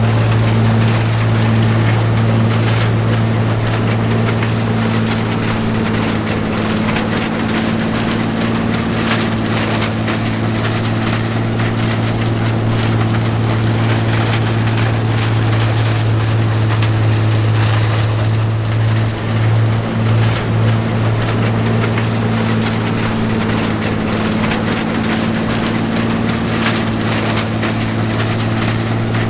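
John Deere 105 combine running steadily while harvesting corn: a constant low engine drone under a broad noisy wash. The drone wavers briefly about twenty seconds in.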